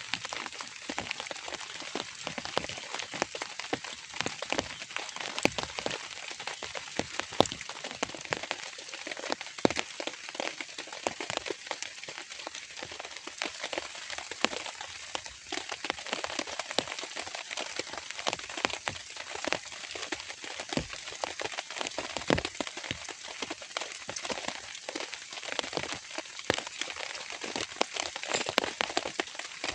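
Steady rain, a dense hiss studded with many sharp taps of individual drops striking close by.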